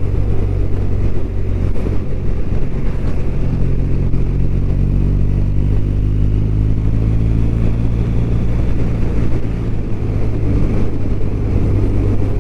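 BMW R1200RT's boxer-twin engine running at a steady riding speed, heard from on the bike with wind and road noise. The engine note wavers a little around the middle.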